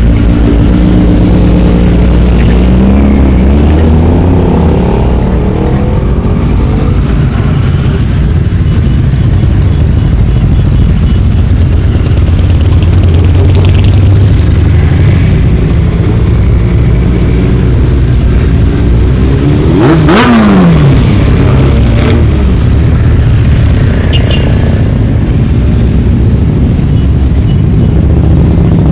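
A loud, continuous stream of motorcycles riding past, engines rising and falling in pitch as they accelerate and go by. About two-thirds of the way through, one passes close, its pitch dropping sharply as it goes by.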